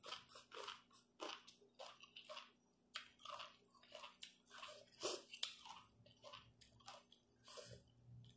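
Faint chewing and crunching of chicken feet from a spicy pounded chicken-foot salad: a run of short, irregular crunches and mouth sounds.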